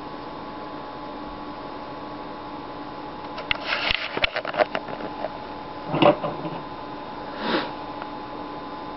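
Steady electrical hum, with a cluster of light clicks and rustles about three and a half seconds in and two short rustling scrapes later on, like small handling noises at an enclosure.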